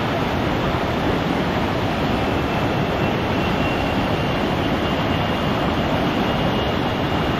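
Steady, loud rushing roar of a waterfall's falling water.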